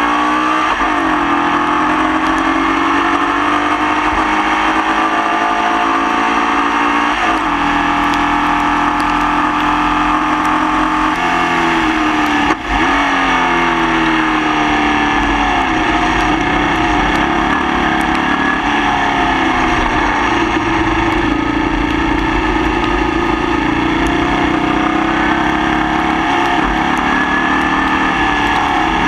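Formula Vee racing car's engine at full throttle, revving up with sharp drops in pitch at gear changes about seven and twelve and a half seconds in, with a brief dip in level at the second change. The engine is running with a misfire.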